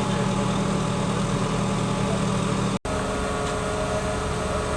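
Heavy diesel engine running steadily with a low drone. The sound cuts out for an instant a little past the middle and comes back with a slightly different tone.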